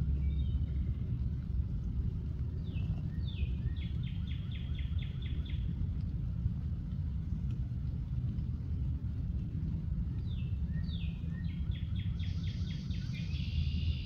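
Steady low outdoor rumble with a songbird singing twice: a couple of falling slurred notes, then a quick run of repeated notes.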